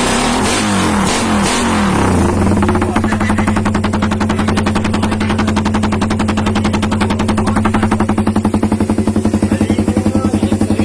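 Suzuki Raider 150's single-cylinder engine through an aftermarket exhaust, revs falling back over the first two seconds, then idling with a rapid, even popping beat from the pipe.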